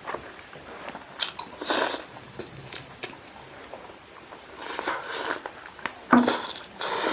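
Close-up mouth sounds of a person eating spicy chicken with rice by hand: irregular bites and chews with some crunching, in uneven bursts with short gaps.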